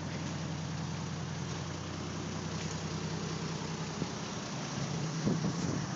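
Old car's engine idling steadily through a new exhaust system with a stock-replacement muffler, still cold from its start. A few irregular knocks near the end.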